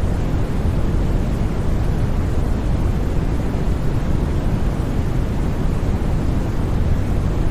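Steady, unbroken white noise for sleep, a constant rushing sound with most of its weight in the low end, so it sounds deep rather than hissy.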